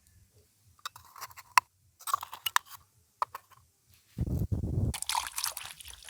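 Eggshells being tapped and cracked: a scatter of light clicks and crunches. About four seconds in comes a louder stretch of crackling and rustling handling noise.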